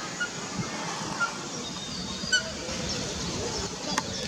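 Garden birds calling: scattered short, high chirps over steady outdoor background noise, with a single sharp click about four seconds in.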